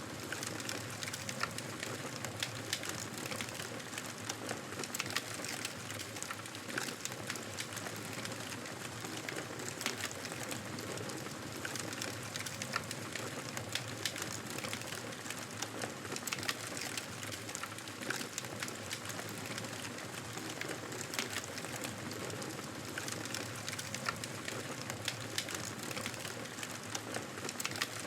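Wood fire crackling in a fireplace: many small irregular pops and snaps over a steady soft hiss.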